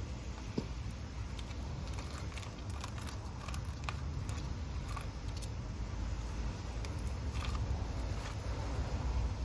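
Scattered light clicks and crackles of hands-on handling work, over a steady low rumble.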